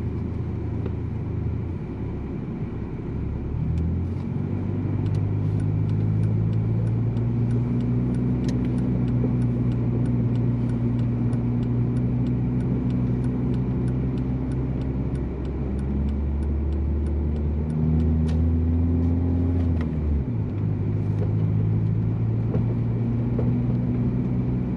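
Big-turbo VW Jetta's engine running at steady cruise, heard from inside the cabin over tyre and road noise on snow. The engine note steps up about four seconds in, rises again near the 18-second mark and drops just after twenty seconds.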